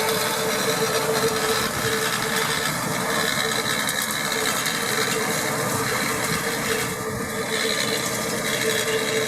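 New Holland T7.235 tractor running under load with a CLAAS Liner rotary rake working behind it: a steady engine hum over a dense mechanical clatter.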